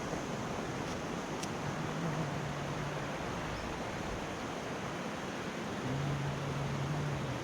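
Steady rush of falling water from the Putna waterfall. A low steady hum rises over it twice, once for about a second and a half early on and again near the end.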